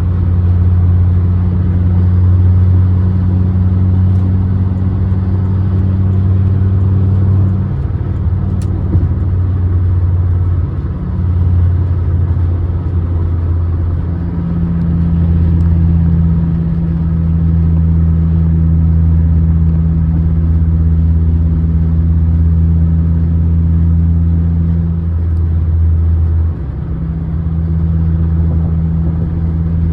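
2006 Honda Accord being driven, its engine running at a steady low drone, with the engine note stepping to a new pitch several times.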